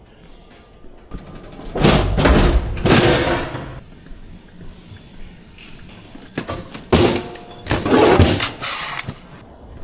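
Bumping and clattering of equipment being handled while a truck is unloaded, in two loud stretches, the second opening with a sharp knock.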